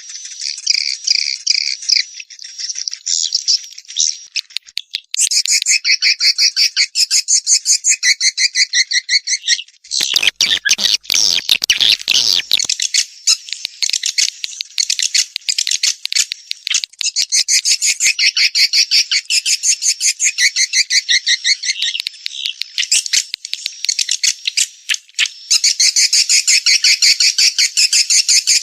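Swiftlet calls played as a nest lure: dense trains of rapid, high chirping twitters repeating throughout. About ten seconds in, a rougher stretch of two or three seconds reaches much lower in pitch before the twittering resumes.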